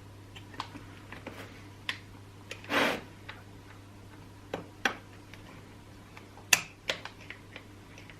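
Scattered sharp clicks and knocks of chainsaw parts and hand tools being handled and fitted together, with a brief scraping rustle about three seconds in and a louder click about six and a half seconds in, over a steady low hum.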